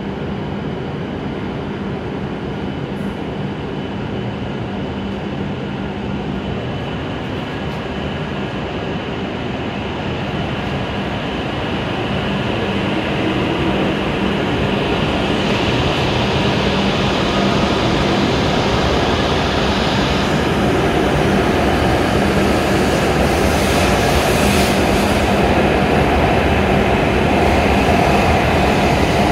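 W7 series Shinkansen train humming steadily at the platform, then pulling away. Its running noise builds steadily from about ten seconds in as it gathers speed.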